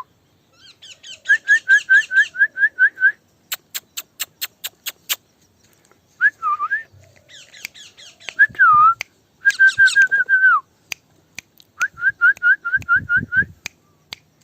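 A person whistling quick runs of short, repeated notes, with a few longer sliding whistles, to call a pet parrot to follow. A brief run of sharp clicks comes about a third of the way through.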